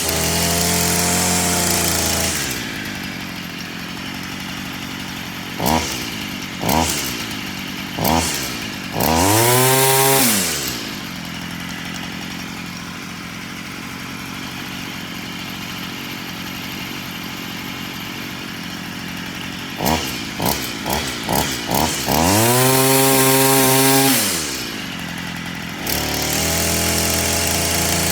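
Stihl FS 46 string trimmer's small two-stroke engine running after a cold start: it settles from a fast idle to idle, is blipped briefly three times and given a longer rev about nine seconds in, then a burst of quick blips and another long rev past the twenty-second mark, ending at a higher steady running speed.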